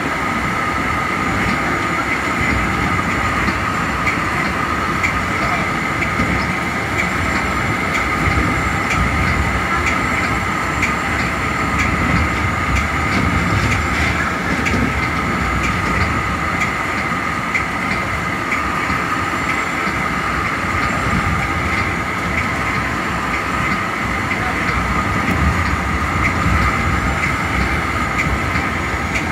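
Metra push-pull commuter cab car running at speed: a steady rumble of wheels on rail with a constant high whine over it and scattered light clicks.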